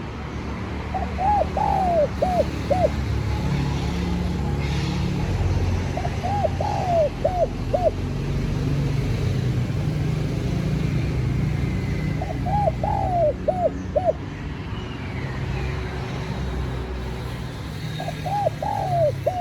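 Spotted dove cooing: four phrases of several quick, arched coos, about six seconds apart, over a steady low rumble.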